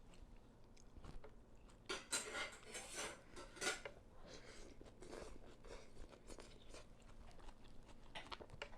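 Eating sounds close to the microphone: slurping and chewing pho noodles, in soft irregular bursts, busiest about two to four seconds in.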